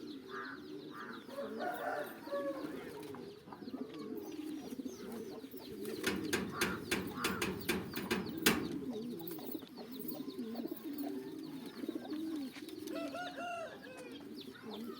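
Several racing homer pigeons cooing steadily and overlapping, with a flurry of sharp taps or flutters between about six and eight seconds in.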